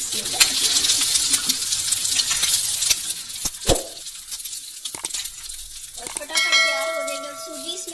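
Hot oil sizzling on a flat iron tawa as egg-coated potato kababs shallow-fry. A couple of sharp knocks come about three and a half seconds in, and a short ringing chime near the end.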